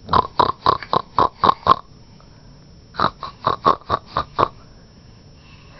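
A person imitating a pig's oink with quick nasal snorts, two runs of about seven snorts each with a pause of about a second between.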